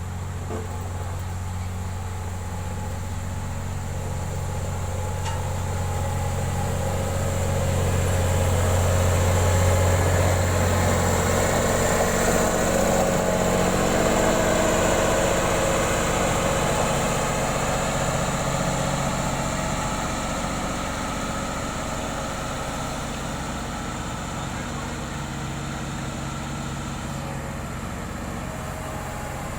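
Heavy road-construction equipment engine running steadily, growing louder to a peak about ten seconds in, then gradually easing off.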